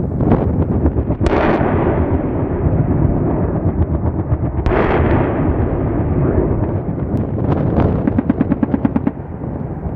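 AH-64 Apache attack helicopter firing in bursts over heavy rotor and engine noise, with two sharp blasts and, near the end, a fast rattle of about ten shots a second.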